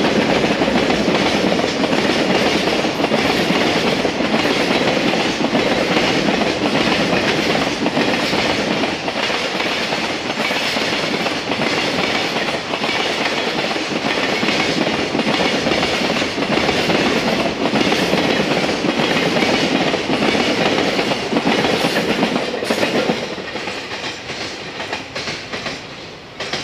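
Container freight train rolling past close by, the wheels of its container flatcars clattering over rail joints in a steady rhythm. The sound falls away near the end as the last wagons draw off.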